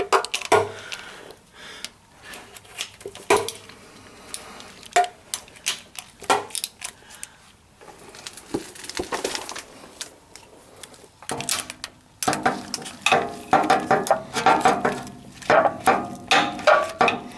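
Half-inch socket ratchet and metal tools clicking and clinking while oil pan bolts are loosened, scattered single clicks at first, then a denser run of ratchet clicking in the last few seconds.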